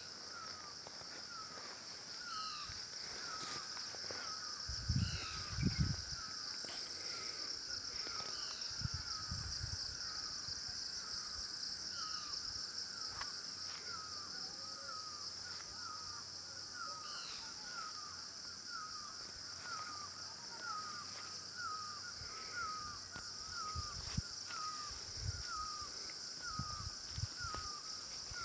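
A bird repeating a short hooked call about twice a second, with scattered higher chirps from other birds, over a steady high-pitched insect buzz. A few low thumps come in about five seconds in and again near the end.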